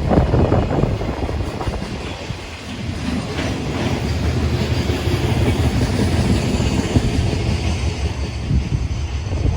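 A train passing on the line, its wheels clattering over the rail joints under a steady low running hum.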